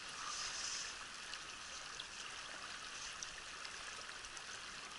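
Steady rush of a mountain trout stream's flowing water, with a brief brighter hiss in the first second.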